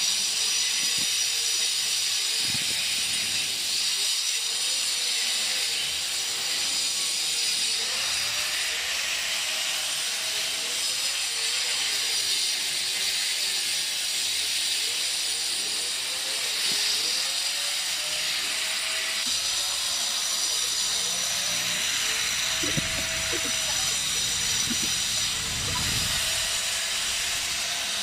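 Angle grinder cutting into a concrete block wall: a harsh hissing grind of the disc on masonry over the motor's whine, whose pitch keeps sagging and recovering as the disc bites under load. A few low rumbling knocks come near the end.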